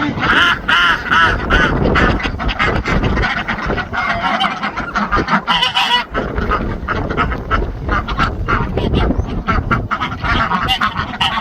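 Geese honking over and over, with other farm poultry calling.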